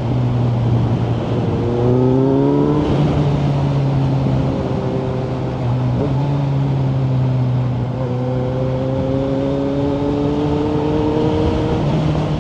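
Kawasaki Z900's 948 cc inline-four running through a Yoshimura aftermarket exhaust under way. The revs climb about two seconds in, hold, then climb slowly again from about eight seconds, with brief drops between like gear changes.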